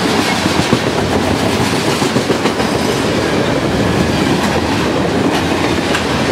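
Loaded CSX garbage train's freight cars rolling past close by, a steady rumble with the wheels clacking over the rail joints now and then.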